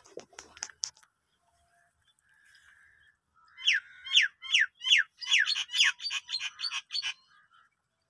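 A bird calling: a run of short, clear whistled notes, each falling steeply in pitch, about two or three a second, then coming faster and more jumbled for a couple of seconds. A few light clicks near the start.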